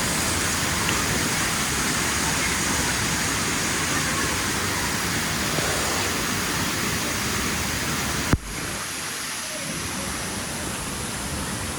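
Steady rush of flowing and falling water on a water-park lazy river, with faint voices under it. A sharp click a bit past eight seconds, after which the water is quieter and duller.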